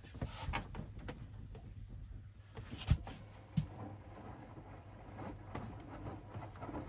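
Hoover washing machine running mid-cycle with a steady low hum, and two sharp knocks a little under a second apart about three seconds in.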